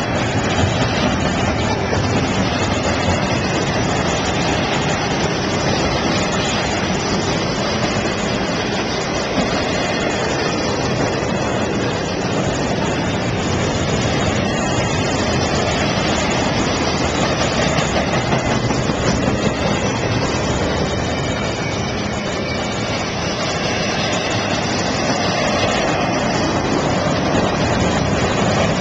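CSX double-stack intermodal container train rolling past close by, a steady loud rumble of its wheels on the rails.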